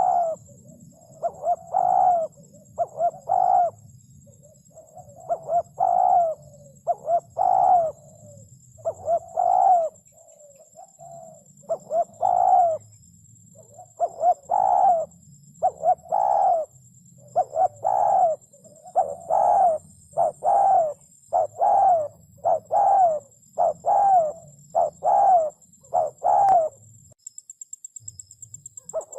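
Spotted dove cooing: short low coos in repeated phrases, one after another, breaking off briefly near the end.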